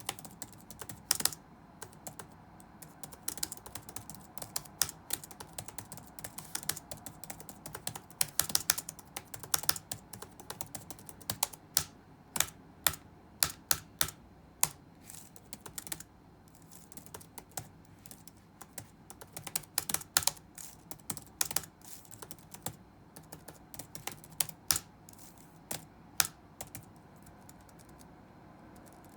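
Typing on a computer keyboard: irregular runs of key clicks with short pauses, some keystrokes much louder than others, over a faint steady room hum.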